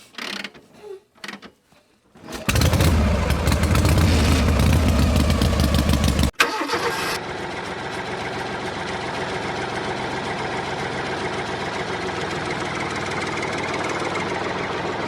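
An engine starts up about two and a half seconds in and runs steadily. After a sudden cut around six seconds in, it carries on at a lower, even level.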